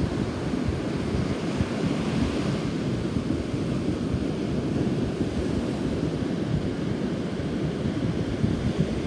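Rough surf washing onto the beach, with strong wind buffeting the microphone in a low, fluttering rumble; sea and wind stirred up by a nearby typhoon.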